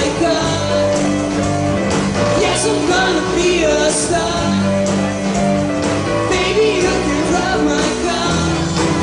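Live rock band playing an instrumental break: a lead electric guitar solo with bending notes over the rhythm section.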